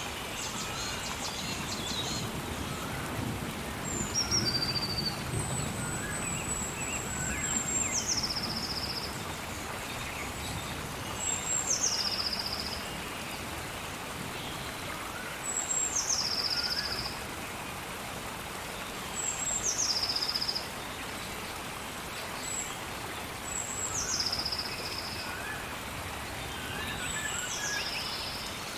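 Steady rain with birds calling over it. One bird repeats the same call about every four seconds: a high whistled note that drops sharply into a lower trill. Softer, lower chirps from other birds come and go.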